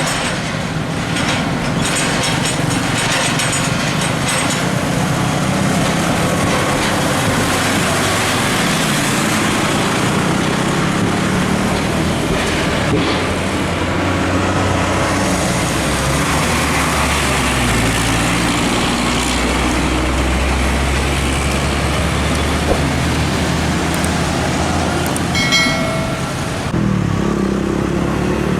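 Heavy diesel trucks passing on a highway, engines running over steady tyre and traffic noise. A deeper engine rumble swells about two-thirds of the way through as a heavy truck goes by, and a brief horn sounds a few seconds before the end.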